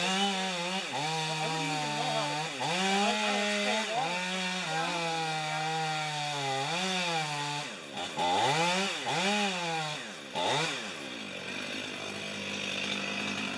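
Chainsaw running at high revs while cutting, its pitch dipping and rising repeatedly as it works through the wood. It drops sharply twice and revs back up, then runs quieter near the end.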